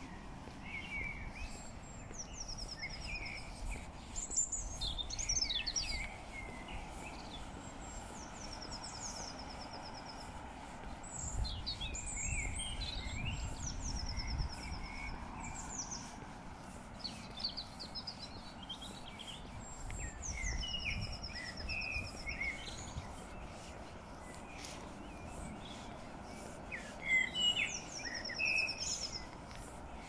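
Songbirds singing, one repeating a short high song that drops in pitch and ends in a fast trill every few seconds, over a steady outdoor background with a low rumble at times.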